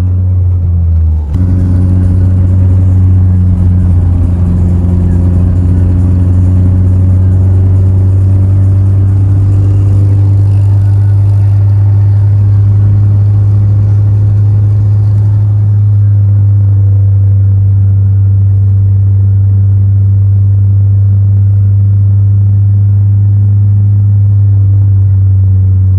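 Car engine and road noise heard while driving: a loud, steady low drone.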